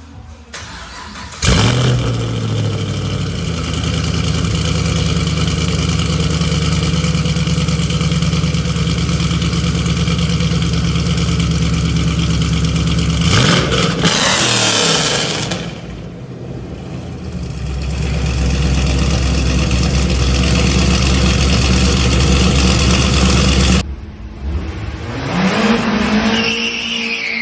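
Car engine revved up and held at high revs, steady for about twenty seconds with a brief rush of noise about halfway through. It cuts off suddenly, then revs climb again near the end.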